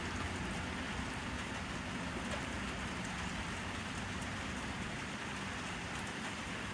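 Steady rainfall at night: an even hiss of rain, with a few faint drop ticks here and there.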